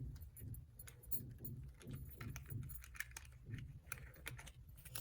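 Small hard plastic toy pieces clicking and rattling as they are handled, in a quick, irregular run of light clicks over a low hum.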